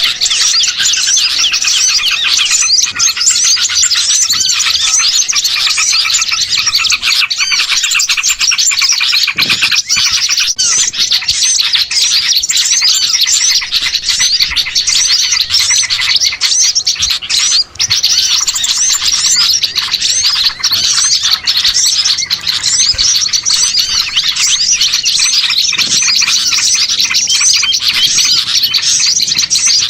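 Dense, unbroken chorus of many small songbirds chirping and twittering over one another: a bird-lure (pikat) call track for attracting small birds.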